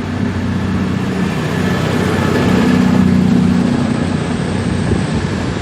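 Railway diesel engine running steadily, a low hum of constant pitch that grows louder around the middle and then eases.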